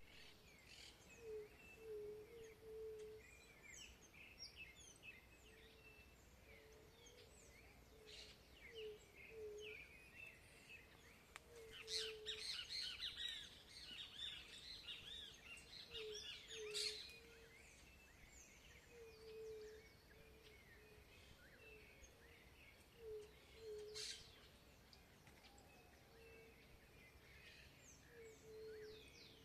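Several birds singing and chirping in quick, overlapping high phrases, busiest about halfway through, with a low short note repeated roughly once a second underneath.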